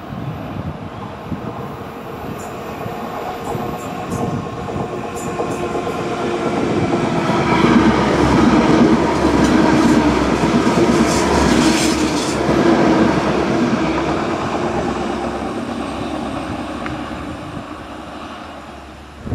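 TransPennine Express Class 185 diesel multiple unit passing through the station. Its engine and wheels on the rails grow louder to a peak about halfway through, then fade as it runs away.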